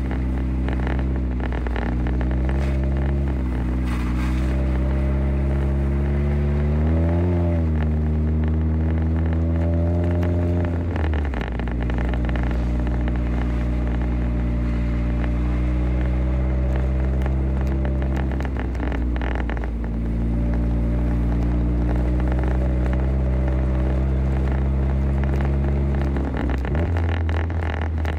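Car engine running while driving, heard from inside the cabin, its pitch rising and dipping several times with throttle and gear changes, with a sharp drop about eleven seconds in, over a steady low drone.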